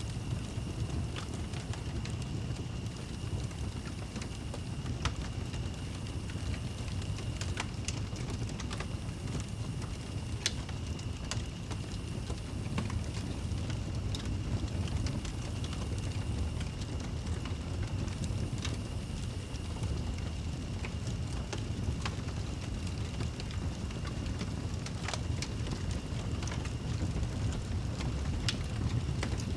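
Wood fire crackling in a fireplace: scattered sharp pops every second or two over a steady low rumble, with a thin steady high tone underneath.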